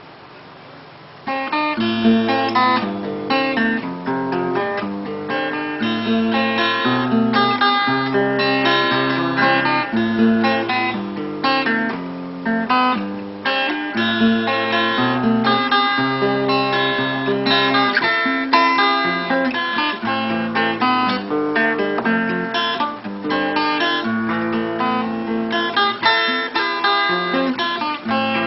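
A guitar playing a melodic piece of plucked notes over a moving bass line. It starts about a second in, after faint hiss.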